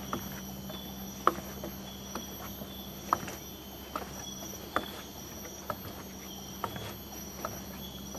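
Tropical rainforest insects such as crickets or cicadas calling with steady high-pitched tones over a low steady hum, broken by sharp clicks about once a second.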